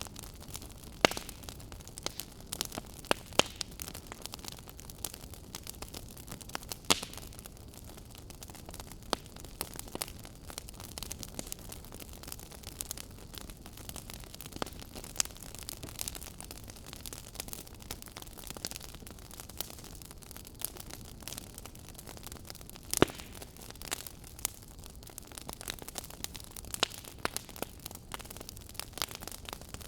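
Log fire crackling in a fireplace: irregular sharp pops and snaps, a few much louder than the rest, over a soft steady hiss.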